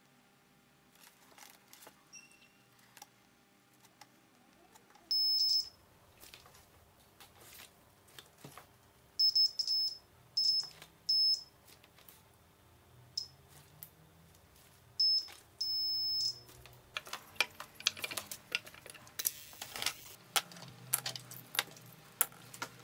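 Light clicks and taps of small plastic parts and wiring being handled, with a series of short, high electronic beeps through the middle, some single and some two or three close together.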